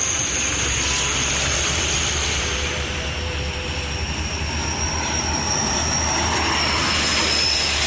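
Heavy truck running past close by on the highway: a steady low engine drone with tyre and road noise and a thin high whine held throughout.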